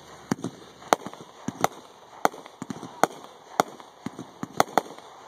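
Multi-shot aerial firework going off: a quick, irregular run of sharp bangs from shells launching and bursting overhead, roughly two a second.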